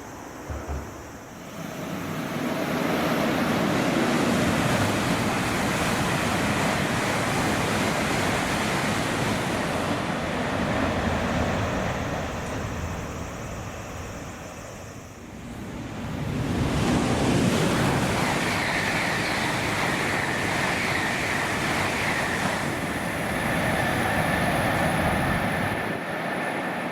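Shinkansen bullet train noise at a station: a loud rushing roar of air and wheels on rail that swells, eases for a moment about halfway through, then swells again. A steady high whine runs through the middle of the second swell.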